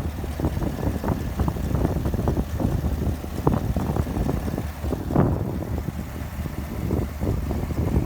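Pickup truck running, a steady low engine rumble with frequent irregular thumps and crackles over it.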